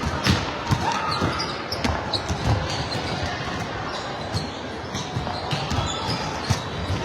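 Indoor volleyball game: repeated sharp smacks and thuds of the ball being hit and hitting the floor, echoing in the gym, over the chatter of players and spectators.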